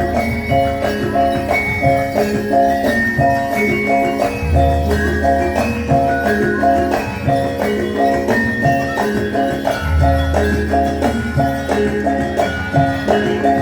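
Javanese traditional imblig ensemble music with a fast, repeating interlocking pattern on pitched metal mallet percussion and a higher melody line above it. Deep gong strokes fall about every five and a half seconds, with jingling bells and a tambourine-like shimmer.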